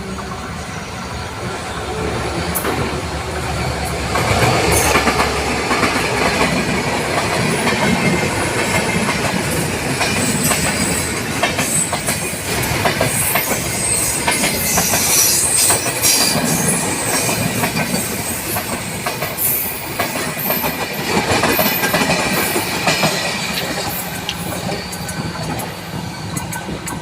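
Train running on rails, wheels clattering over the rail joints with high squeals of wheel on rail; it grows louder about four seconds in.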